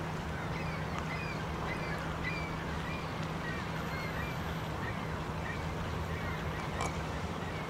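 Birds chirping, a string of short, high calls coming every fraction of a second, over a steady low hum and outdoor noise.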